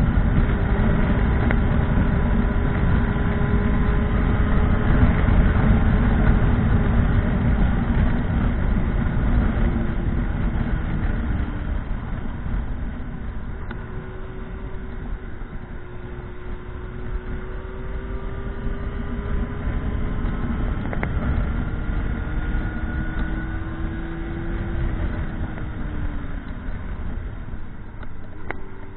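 Motorcycle riding on the road: a heavy low rush of wind noise with the engine's note drifting up and down as the speed changes, gradually easing off toward the end.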